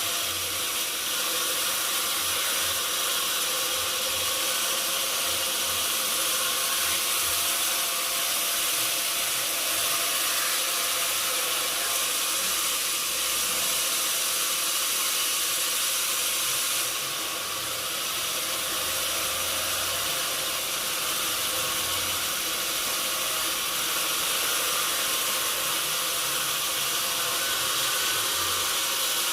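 Sawmill machinery running steadily: a constant high hiss with a faint steady hum underneath, dipping briefly a little past halfway.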